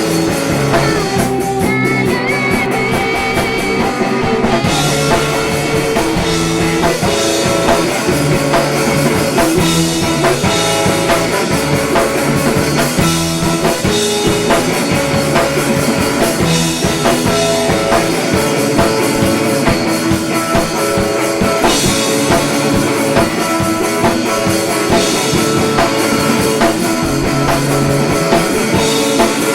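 Three-piece indie-pop band playing live: rock music with guitar and drum kit, going steadily without a break.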